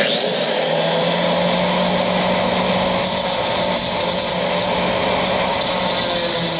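Grinder with a cut-off wheel running steadily as it cuts metal on the old steel leaf-spring hanger, a loud even whine with a hiss of cutting.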